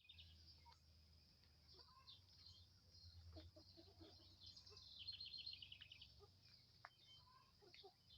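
Faint bird chirping outdoors: many short high calls, with a quick rattling trill about five seconds in, over a low steady hum.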